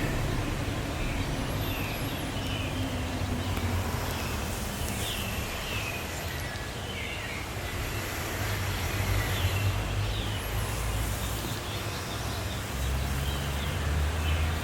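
Outdoor ambience: a steady low rumble, with short bird chirps now and then.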